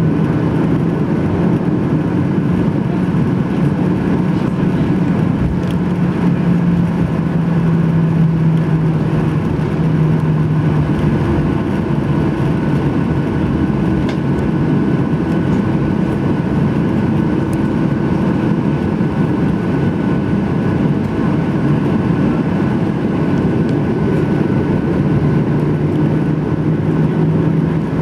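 Cabin noise inside a Boeing 737-800 with its CFM56 engines running at low power: a steady drone with a low hum that shifts in pitch about a third of the way in and back near the end.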